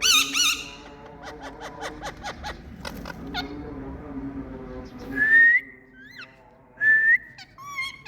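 Pet Indian parrots calling: a loud warbling trill at the start, then a fast run of short chirps and clicks, then two loud rising whistles about five and seven seconds in.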